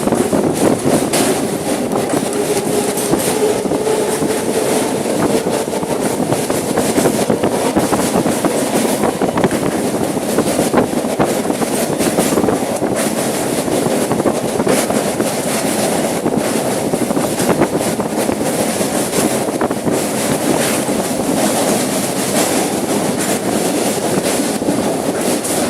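Train running along the track: a steady rumble broken by frequent sharp clicks of the wheels over the rails.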